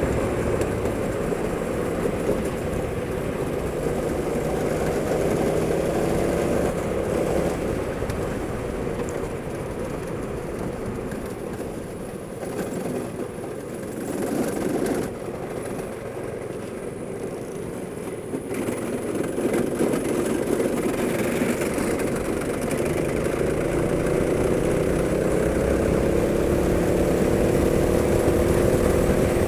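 Go-kart engine running at speed. Its pitch rises, drops and quietens through the middle as the kart slows, then climbs again as it accelerates near the end.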